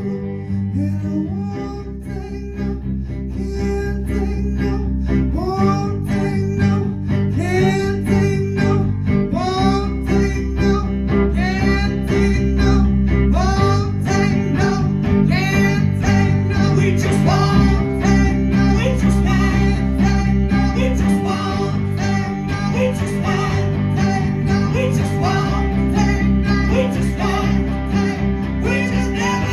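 Live rock band playing an instrumental break: a guitar lead of notes that slide up into pitch over bass and drums.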